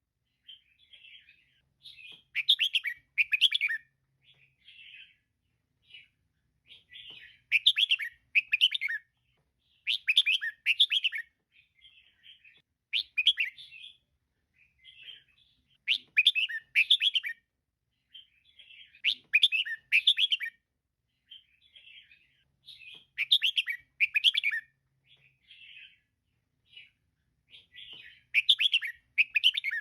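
Female red-whiskered bulbul calling: loud chattering phrases about every three seconds, with softer short chirps between them.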